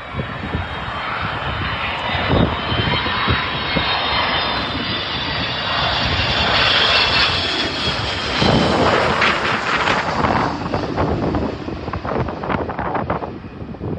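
Boeing 727's three rear-mounted JT8D turbofan engines running loud on approach to land, a steady jet noise with a high whine over it. Gusts of wind buffet the microphone, more in the second half.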